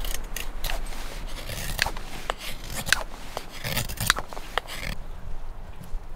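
Wood fire crackling in a freshly lit Winnerwell Woodlander wood stove: irregular sharp snaps over a hiss, the hiss easing about five seconds in.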